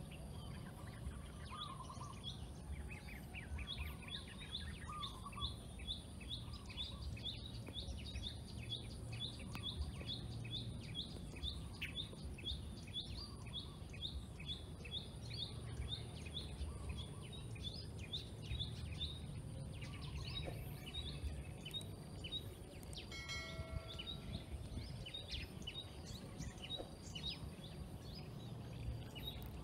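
Outdoor birdsong: one bird repeats a short high chirp about twice a second through the middle of the stretch, while other birds give scattered calls, over a steady low rumble.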